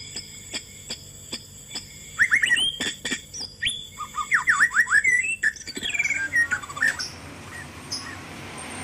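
Bird chirping: a quick run of sharp chirps sweeping down in pitch, over a steady high whine with about three ticks a second in the first seconds; it gives way to a steady hiss near the end.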